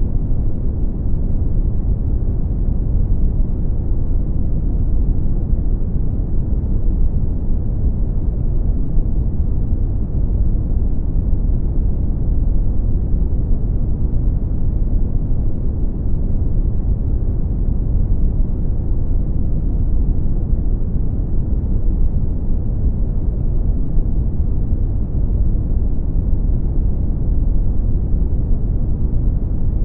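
Steady brown noise: a deep, even rumbling hiss, strongest in the bass and fading toward the treble, with no changes.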